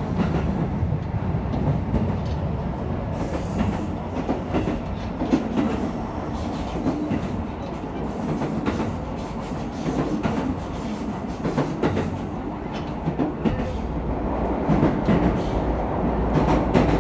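Cabin noise of an Aonami Line 1000 series electric train running along the track: a steady rumble of wheels on rail with the clickety-clack of rail joints, and a brief hiss about three seconds in.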